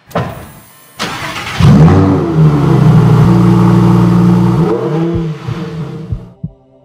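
Sports car engine cranking and catching about a second and a half in with a rising rev. It runs at a steady fast idle, is blipped once, then fades away. Deep, evenly spaced thumps like a heartbeat begin near the end.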